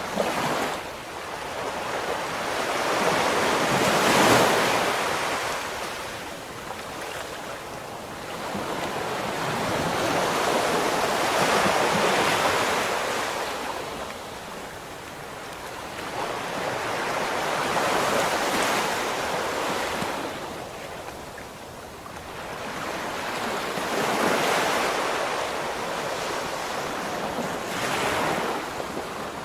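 Ocean waves breaking and washing on the shore, swelling and fading in slow surges about every six to seven seconds, with some wind noise on the microphone.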